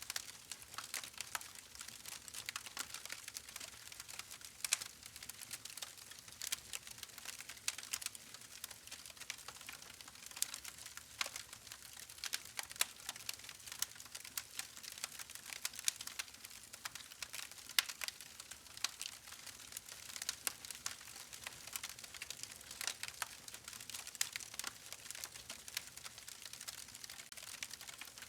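Campfire burning with dense, irregular crackling and popping over a soft hiss.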